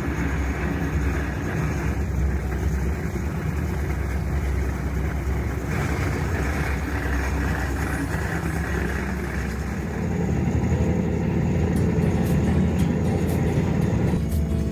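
Sleeper train running, a steady low rumble of the moving carriage heard from inside the compartment, growing slightly louder about ten seconds in.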